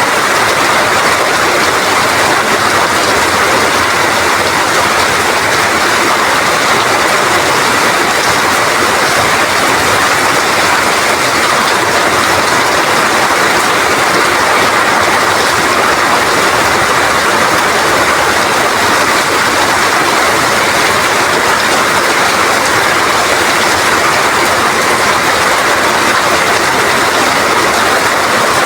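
Rain falling with strong wind: a dense, even hiss that holds steady without a break.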